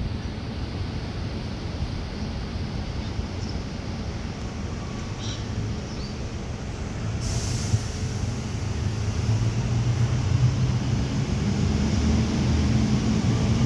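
A low, steady engine-like hum that grows louder over the second half, with a short hiss about seven seconds in.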